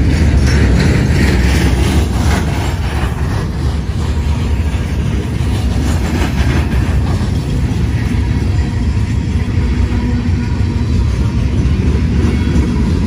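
Freight train of CSX gondola cars rolling past close by: a steady low rumble of steel wheels on rail, with clattering for the first few seconds.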